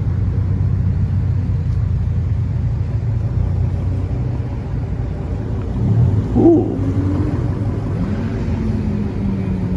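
Car engine rumbling at a steady idle, with one engine's pitch rising and holding briefly about eight seconds in.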